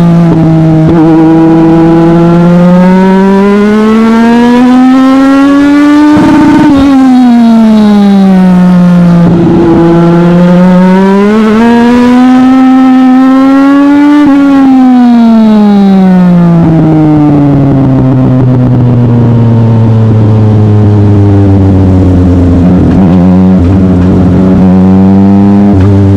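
Legend race car's Yamaha motorcycle-derived four-cylinder engine under load, its pitch climbing steadily, lifting off about six seconds in, then climbing again. From about two-thirds of the way through it drops and runs at a low, steady speed.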